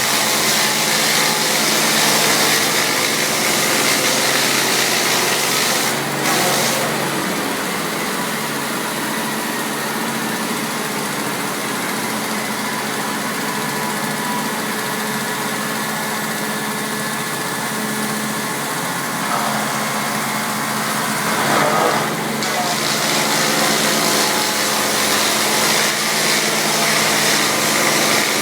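Taiga OS-1 electric log-rounding machine running, with a steady hum and a hiss. The hiss drops back about six seconds in and builds up again after about twenty-two seconds.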